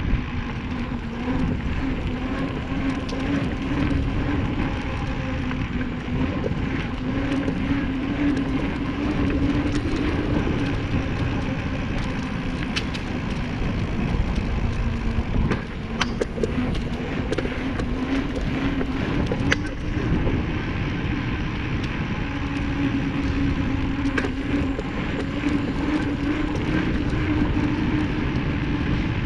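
Wind rumbling on the microphone of a bicycle being ridden, with a steady droning hum that wavers slightly in pitch. A few sharp clicks and rattles, most around the middle.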